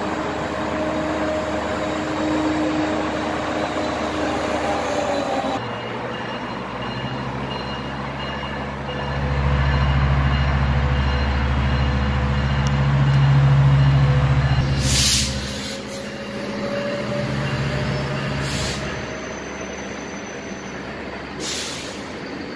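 Metrolink double-decker commuter train passing, its diesel locomotive giving a deep rumble that swells in the middle and then eases off. Three short hisses of air from the train's brakes come in the second half.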